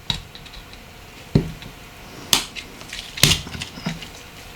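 Parts of a Nokia 8910i handled during disassembly: five or six sharp clicks and light knocks of small phone parts, one a duller thud.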